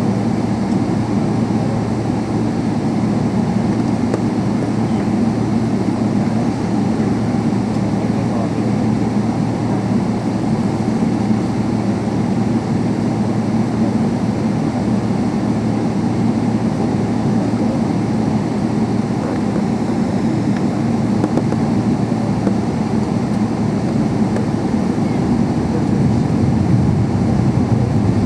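Steady low rumble of jet engines and air noise heard inside the cabin of a Boeing 777-300, with a slight swell near the end.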